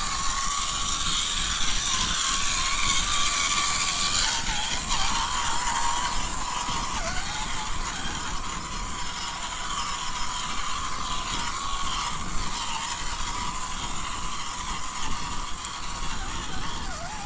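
Electric motor and gearbox of a small MN128 RC crawler whining steadily, the pitch wavering up and down as the throttle changes.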